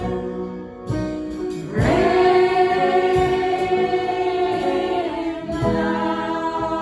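Choir singing a gospel worship song with instrumental backing, with long sustained notes. A fuller held chord swells in about two seconds in and fades a little over a second before the end.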